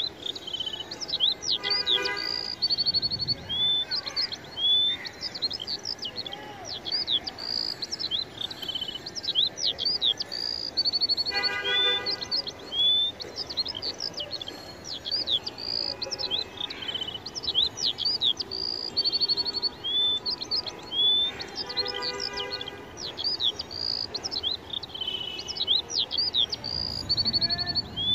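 Birds chirping and singing, a steady stream of quick high chirps and short whistled notes, with a lower, harsher call about every ten seconds.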